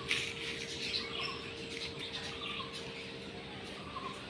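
Small birds chirping in short, scattered calls over a faint steady hum, with a brief sharp knock just after the start.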